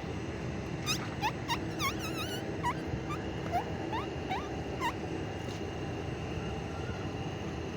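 An animal giving a run of about ten short, high chirping calls over four seconds, each a quick pitch hook, over a steady low background hum.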